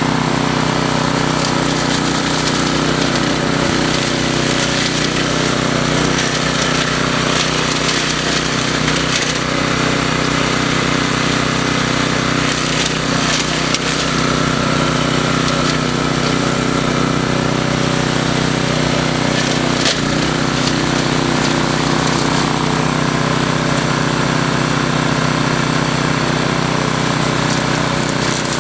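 A DR brush mower's 10.5 hp industrial/commercial Briggs & Stratton engine running steadily under load while mowing through brush, with the cutting noise of brush and wood mixed in.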